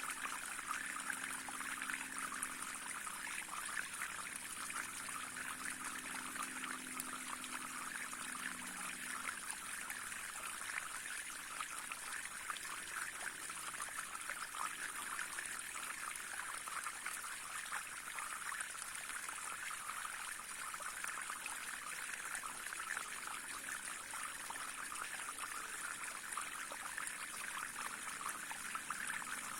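A small stream running steadily, with a continuous trickling rush of water.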